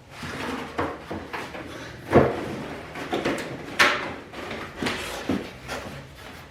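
Welder accessories and packaging being handled and set down by hand: three sharp knocks, with rustling and shuffling between them.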